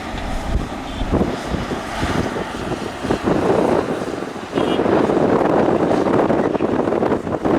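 Excavator's diesel engine working, with wind buffeting the microphone; about four and a half seconds in the sound steps up, louder and rougher.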